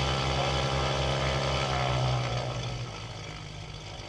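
Propeller aircraft engine running: a steady, loud pitched hum with a low pulsing beat of about four a second, which falls off noticeably about three seconds in.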